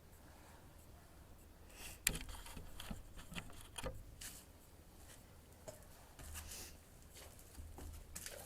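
Small metal clicks and scrapes of hand tools working at the valve springs and keepers of a 1948 Farmall Cub engine. Quiet for about two seconds, then a string of irregular clicks and short scrapes, the sharpest about two seconds in.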